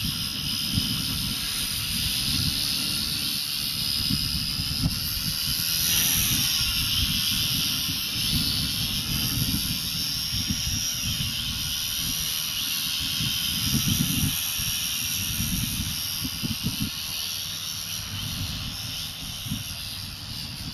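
Electric coaxial RC helicopter's brushless motor and rotors whining in flight, the pitch wavering up and down, over an irregular low rumble.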